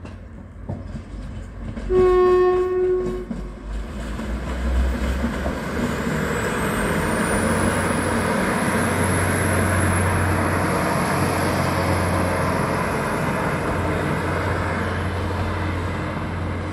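Transport for Wales diesel multiple unit giving one short horn blast about two seconds in, then running past with a steady engine rumble and wheel noise on the rails. A thin high whine rises from about six seconds in and then holds.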